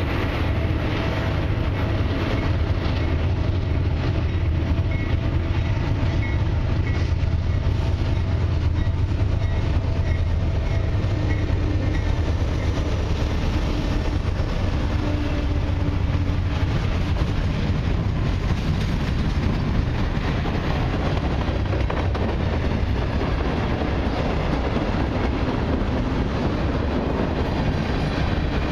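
Freight train passing close: two CN diesel locomotives' engines running as they approach and go by, giving way to the rumble and clickety-clack of freight cars' wheels on the rails.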